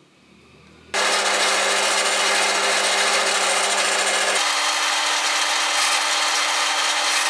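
Angle grinder, converted to run on an 18 V battery with an 895 DC motor, starting up suddenly about a second in and running with a steady whine over a harsh hiss. About three and a half seconds later the whine jumps abruptly to a higher pitch.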